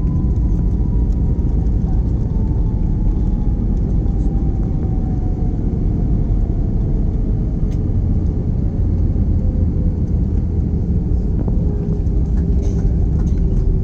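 Airbus A321 cabin noise: a loud, steady low rumble with an IAE V2500 engine tone gliding slowly down in pitch as the engines spool down.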